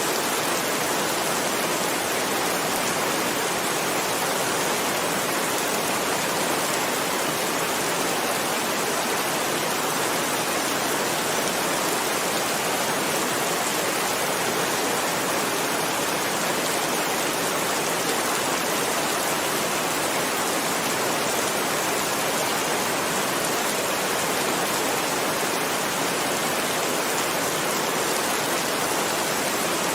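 Heavy rain falling steadily, a dense even hiss of many drops with no pauses or changes.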